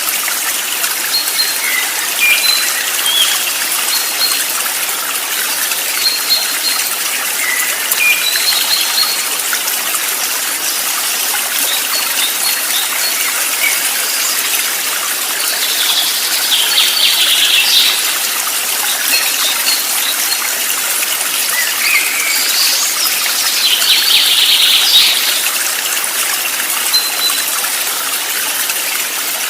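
Stream water flowing steadily, with small birds chirping now and then over it and two longer bursts of twittering, one about halfway through and one later on.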